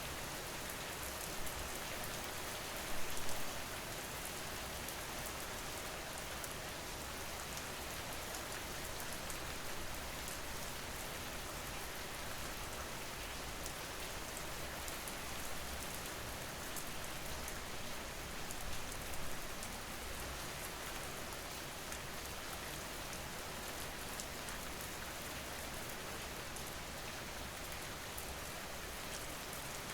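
Steady rain falling, with fine scattered drop ticks and a couple of brief louder spells, about three seconds in and again near nineteen seconds.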